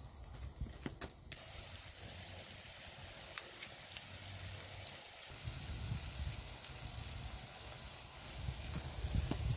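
Chopped onion, herbs and walnuts sizzling steadily in a frying pan over a wood fire, with a few light clicks in the first second or so.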